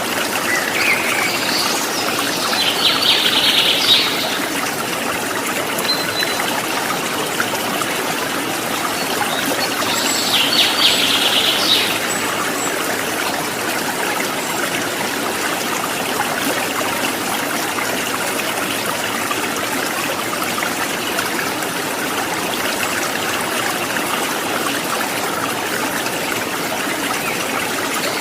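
Water trickling and gurgling steadily, with a songbird singing short rapid trills twice, near the start and again about ten seconds in.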